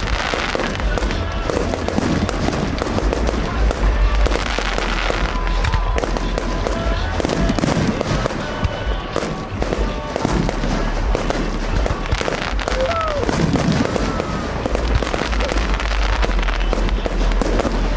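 Fireworks display: aerial shells bursting in quick succession, a continuous stream of bangs and crackles.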